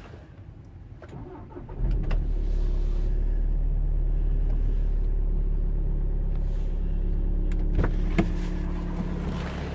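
VW Sharan's 2.0 four-cylinder diesel engine cold-starting at −4 °C after standing two weeks: a short crank, then it catches just under two seconds in and runs steadily. Two sharp clicks near the end.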